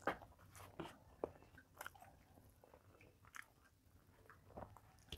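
Faint close-up eating sounds: a mouthful of rice and vegetables taken by hand and chewed, heard as a few soft, irregular crunches and mouth clicks, the strongest right at the start.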